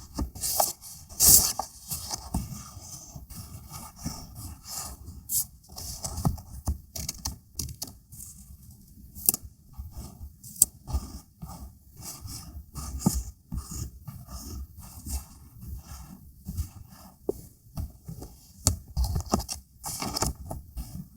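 Paper and stickers being handled by hand: an irregular run of short rustles and scrapes, with sharp clicks here and there.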